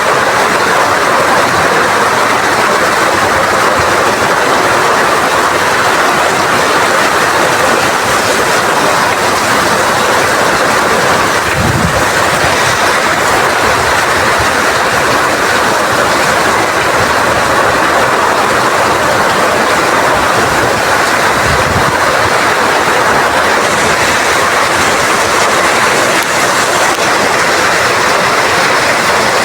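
Heavy rain falling in strong wind, a loud, steady, even hiss. Two brief low thumps come through, one about twelve seconds in and one about twenty-two seconds in.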